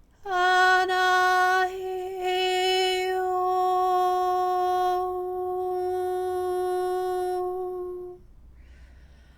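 A woman's voice toning one long, steady note for about eight seconds, then a breath in before the next note.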